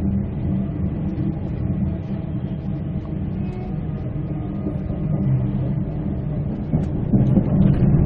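Tilt Train heard from inside the carriage while running along the line: a steady low rumble of the wheels on the track, growing a little louder near the end.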